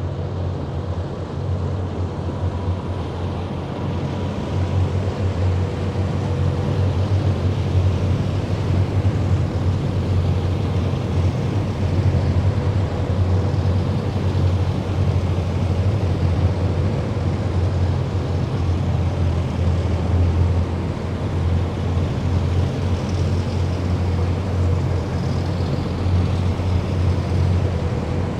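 Military vehicles of a parade column driving past in a deep, continuous engine rumble, with a thin steady whine over it. The sound grows a little louder about five seconds in.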